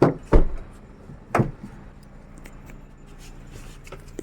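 Three thuds of a Maruti Suzuki Baleno's car door being handled and shut, the second one, under half a second in, the loudest, followed by a few faint clicks.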